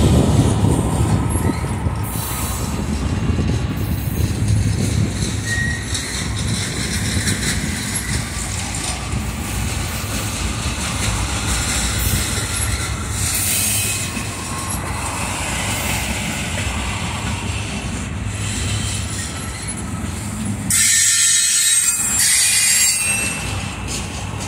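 Loaded freight flatcars rolling past, steel wheels running over the rails in a steady rumble, with a louder high-pitched stretch near the end.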